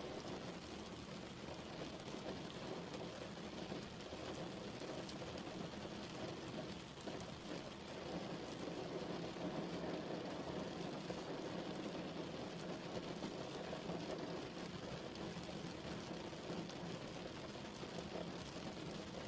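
Steady rain falling, an even wash of noise dotted with many small drop ticks, holding level throughout.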